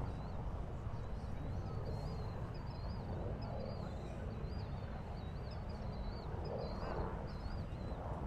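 Steady low outdoor rumble with a small bird twittering, short high wavering notes repeated about twice a second, and faint distant voices.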